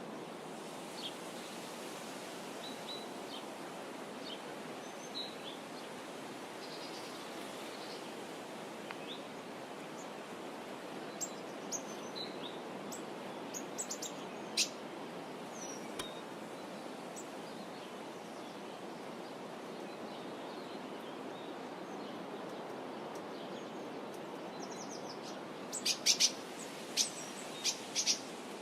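Birds chirping over a steady outdoor background rush. The chirps are short and scattered, then a quick run of louder, sharper chirps comes near the end.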